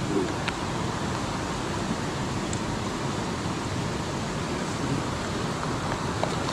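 Mountain stream water rushing over rocks in a steady hiss, with a couple of faint clicks.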